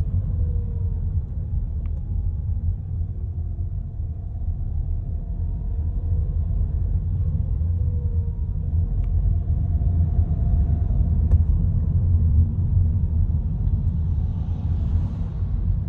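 Skoda Octavia A7 1.8 DSG on the move: a steady, heavy low rumble with a faint whine that slowly slides up and down in pitch. This is the howl the owner is trying to trace.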